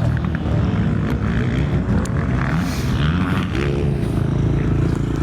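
Honda Africa Twin's parallel-twin engine running as the bike is ridden, the revs rising and falling, then holding steady from about three and a half seconds in.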